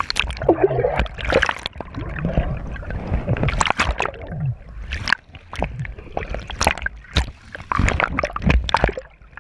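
Water splashing and sloshing in an irregular run of sharp splashes, over a steady low rumble.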